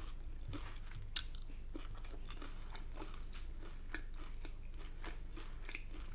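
Close-miked chewing of Chinese takeaway food, with soft crunches and small mouth clicks and one sharper crunch about a second in.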